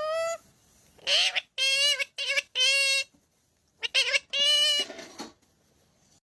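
Pet parrot chattering: about seven short, high-pitched squawky calls in quick succession, some bending up or down in pitch, stopping about five seconds in.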